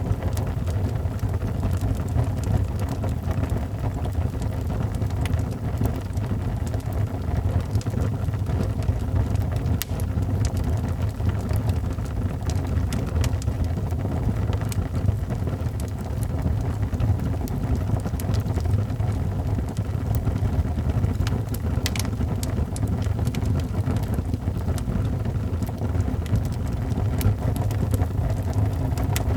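Wood fire burning in a fireplace: a steady low rumble with frequent small, sharp crackles and pops scattered throughout.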